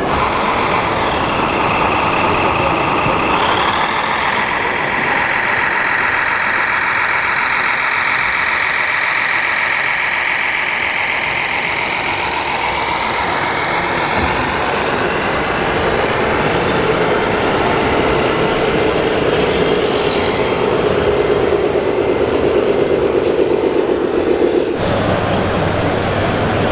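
Radio-controlled scale model trucks and machines running: a steady mechanical hum with pitched tones that waver and shift, moving lower about two-thirds of the way through, then an abrupt change near the end to a steady low hum.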